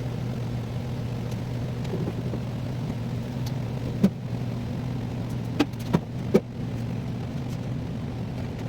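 A steady low mechanical hum, with four short sharp knocks about halfway through, three of them in quick succession.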